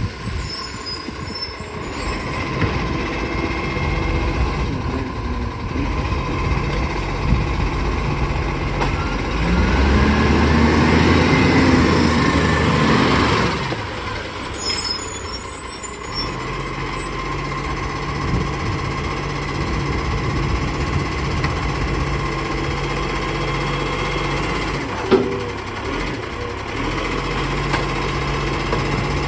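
Diesel garbage truck running, its engine revving up and falling back once midway, with short hisses of air-brake release. A single sharp knock comes near the end.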